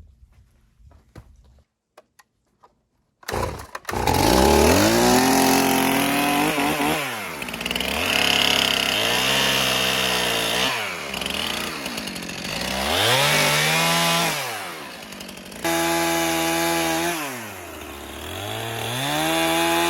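After about three seconds of near silence, a chainsaw engine starts in loud and suddenly. It revs up and eases back down about four times, its pitch climbing and falling over a second or two each time.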